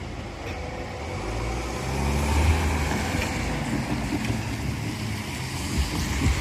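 Tobu Tojo Line train running by with a steady low rumble that swells about two seconds in.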